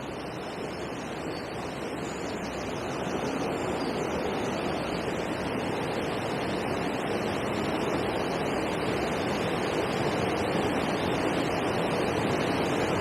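Steady rush of water churning over a river weir, growing gradually louder.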